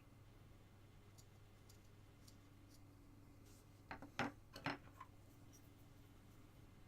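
Near silence over a faint steady hum. About four seconds in comes a quick cluster of sharp clicks and scrapes from a carving knife working a small basswood carving.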